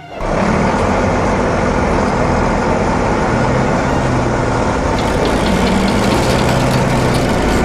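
Heavy vehicle engine running steadily with a low drone, cutting in abruptly at the start.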